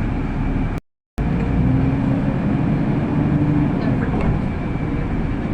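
City bus interior while driving: the engine and road rumble run steadily, with a faint steady whine. The sound cuts out completely for a fraction of a second just under a second in.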